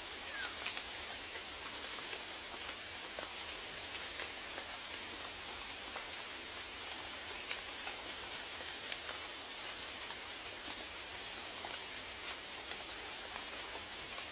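Steady rain falling, a constant hiss with many distinct drops ticking and pattering on a surface close by.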